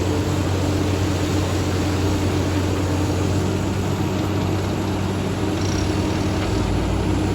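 A vehicle engine running with a steady, unbroken low drone.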